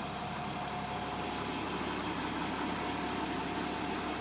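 A 2012 IC CE school bus's 245-horsepower MaxxForce DT inline-six diesel idling evenly, with a steady whine running over the engine noise.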